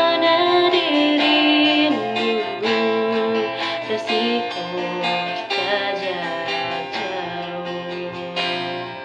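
A slow song: a woman's voice singing a held, gently wavering melody over plucked guitar accompaniment.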